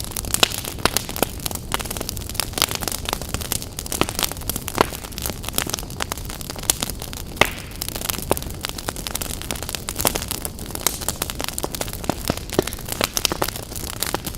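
Campfire burning with irregular sharp crackles and pops, several a second, over a steady low rumble and hiss of the flames.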